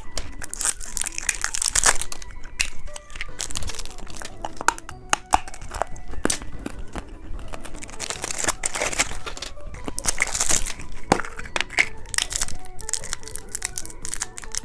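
Plastic candy wrappers crinkling and tearing in irregular crackles as candy packets are handled and opened.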